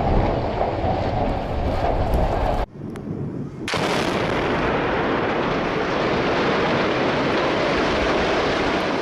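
Explosive demolition of a decommissioned iron ore plant: dense, rumbling blast-and-collapse noise that cuts out abruptly about two and a half seconds in, then returns a second later as a steady wash of debris noise.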